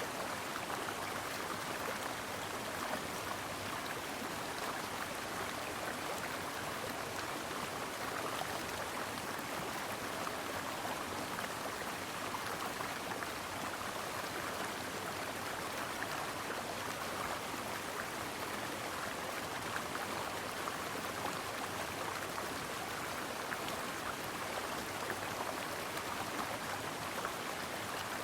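A brook flowing, with a steady, even rush of water that does not change.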